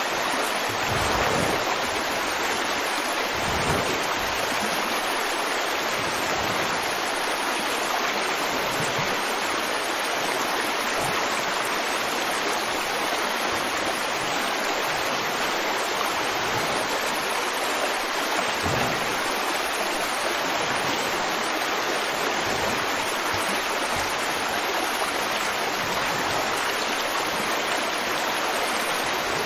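River water flowing steadily, with a few brief low surges.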